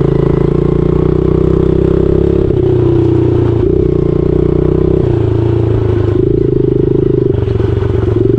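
Honda 70 dirt bike's small single-cylinder four-stroke engine running at low revs, its pitch stepping up and down a few times as the throttle changes.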